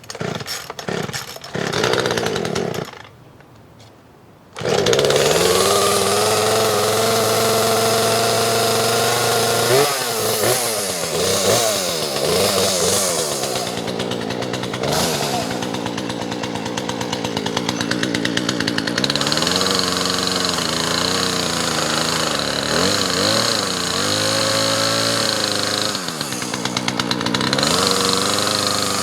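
Poulan Pro PR4218 two-stroke chainsaw: after a few short sounds in the first seconds, the engine starts about four and a half seconds in and runs on, its speed rising and dropping as it is throttled.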